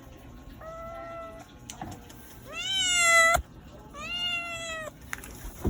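Domestic cat meowing three times, each meow about a second long; the middle one is the loudest, rising in pitch at the start and cutting off sharply. The cat is hungry and meowing for food.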